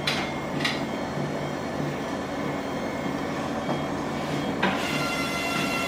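Electric treadmill running at about 8 km/h: a steady motor hum with a regular low pulse from the turning belt, a couple of light clicks near the start, and a higher steady whine from the motor joining in near the end. It is a test run of the freshly cleaned, lubricated and re-tensioned belt.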